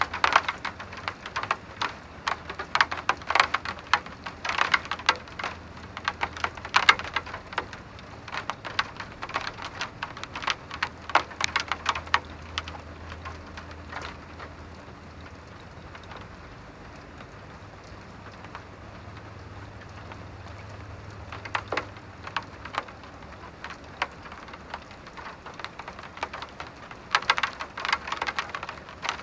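Rain falling, with many close, sharp drips hitting a hard surface over a steady patter. The close drips come thickly at first, thin out to a few isolated ones around the middle, and pick up again near the end.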